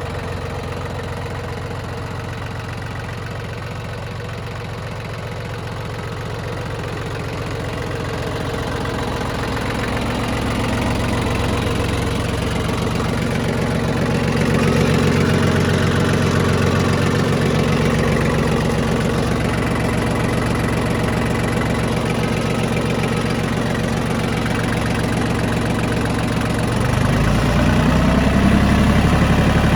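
Three-cylinder diesel engine of a Yanmar YM1820D compact tractor running steadily. It grows louder about a third of the way in and rises in pitch again near the end as it revs up.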